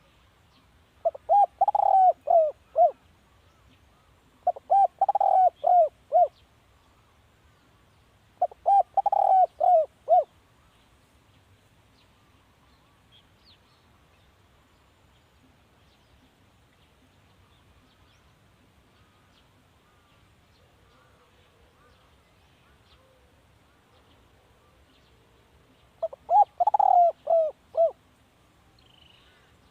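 Spotted dove cooing: phrases of several quick coos, each lasting about two seconds. Three phrases come a few seconds apart, then after a long pause one more comes near the end.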